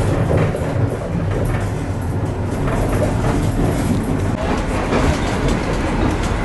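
Passenger train running along the track: a steady low rumble of the wheels on the rails, with faint clicks.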